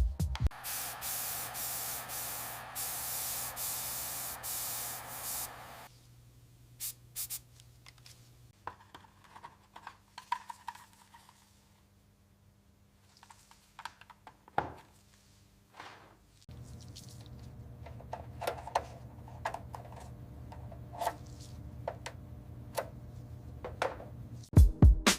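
Compressed-air spray hissing steadily for about six seconds, then cutting off suddenly. After it comes a low steady hum with scattered clicks and taps.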